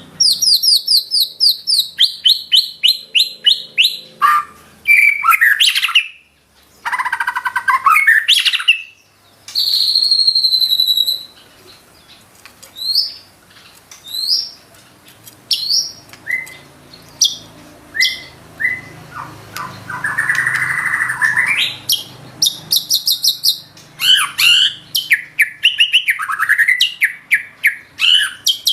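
White-rumped shama singing a loud, varied song of rapid repeated notes, trills and whistles, full of phrases mimicked from other birds. A quieter run of spaced single notes in the middle ends in a harsher buzzy phrase about twenty seconds in.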